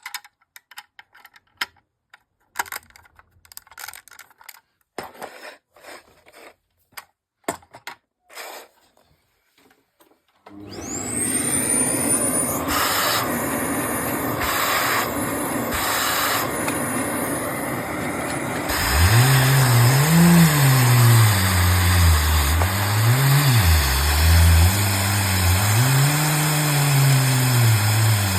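Lego model four-cylinder engine: for the first few seconds there are scattered plastic clicks from handling, then its electric motor starts with a high whine that rises and settles. About two-thirds in, a louder low running note joins, rising and falling as the engine revs up and down.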